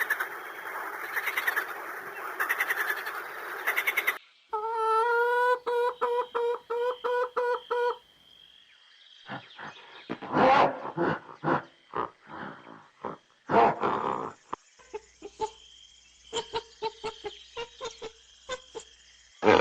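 A run of different animal calls, one recording after another: a dense chattering chorus for the first four seconds, then a rapid series of evenly spaced pitched croaks or clucks, then irregular calls and clicks.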